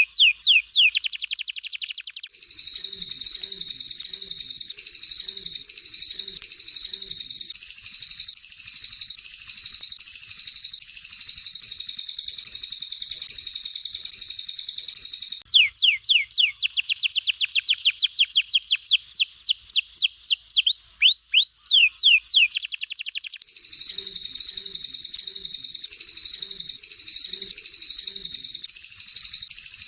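Canary and cililin song in rapid 'tembakan' phrases. Runs of fast, repeated downward-sweeping whistles alternate with long stretches of dense, very high-pitched trilling.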